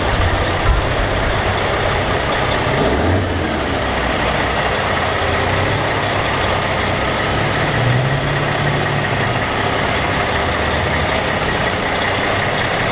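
Heavy trucks' diesel engines running in a steady, loud din, with deeper engine notes swelling briefly about three seconds in and again about eight seconds in.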